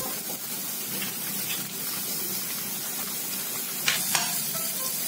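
Chopped onion, carrot, paneer and tomato sizzling in butter in a kadhai as they are stirred with a spoon, with a few short clicks of the spoon against the pan, the most marked about four seconds in.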